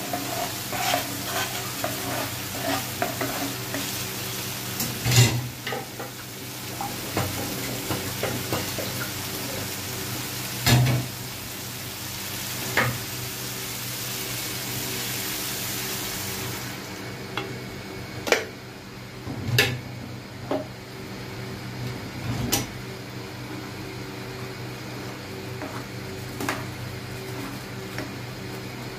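Onion-tomato masala sizzling in oil in a frying pan while a spatula stirs it, with several sharp knocks of the spatula against the pan. The sizzle is strong at first and dies down a little past halfway.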